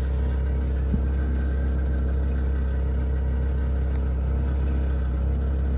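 Forklift engine running steadily at idle with an even low rumble, and a single light click about a second in.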